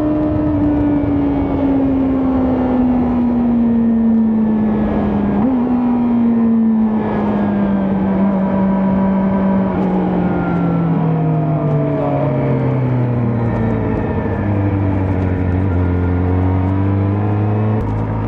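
Kawasaki ZX-4RR's 399 cc inline-four exhaust while riding, its pitch falling slowly and steadily as the revs drop off the whole time, with wind rushing past.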